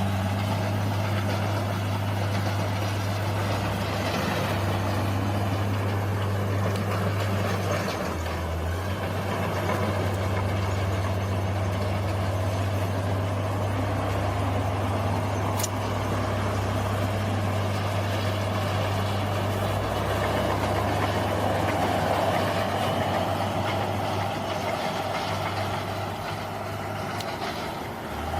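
Bulldozer's diesel engine running steadily with a low, even hum, and a single brief click about halfway through.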